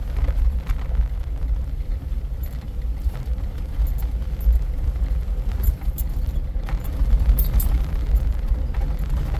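Four-wheel-drive vehicle crawling along a rough dirt trail, heard from inside: a steady low engine and drivetrain rumble, with scattered light clinks and rattles from loose things in the cabin.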